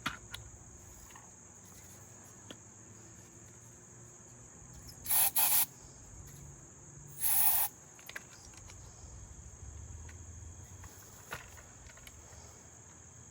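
Crickets chirping steadily, with two short rasping pulls on the recoil starter cord of a McCulloch Eager Beaver chainsaw about five and seven seconds in, trying to start an engine that hasn't run in ten years.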